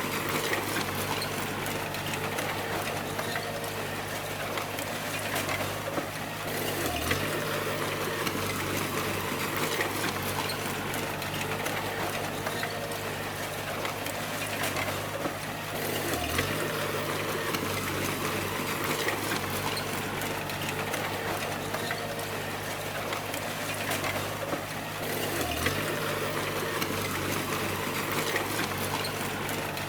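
Bulldozer's diesel engine running steadily under a constant wash of mechanical noise. Its note dips briefly and recovers three times, about nine seconds apart.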